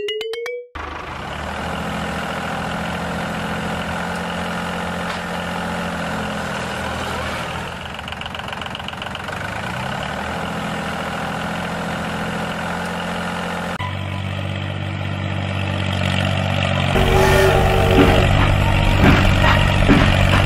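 Diesel tractor engine sound running steadily. About 14 seconds in it switches abruptly to a deeper, louder engine sound, with a few sharp knocks near the end.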